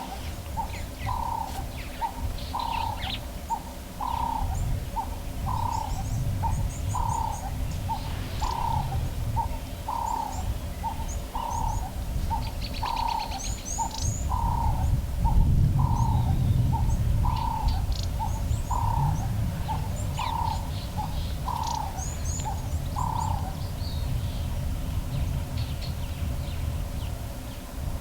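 A bird repeating a low cooing call, a short note and a longer one about every second, which stops a little before the end; other small birds chirp high and briefly in between. Wind rumbles on the microphone throughout, strongest about halfway through.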